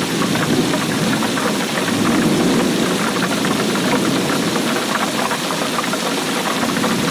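Heavy rainfall: a dense, steady patter of countless drops.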